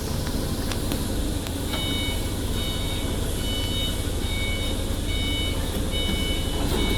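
An electronic beeper sounds a repeated high-pitched beep, a bit more than one a second, starting about two seconds in, over a steady low machinery hum.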